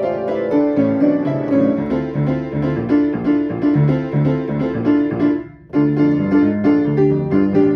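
Piano playing a fast, driving piece with a repeating bass figure; the music stops abruptly for about half a second roughly two-thirds of the way in, then comes back in.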